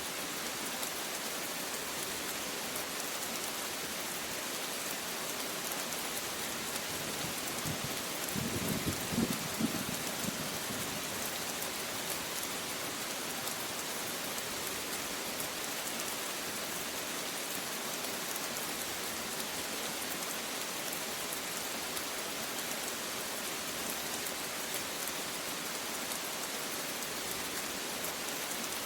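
Steady rain falling, with a short low rumble of thunder about eight seconds in that lasts around two seconds.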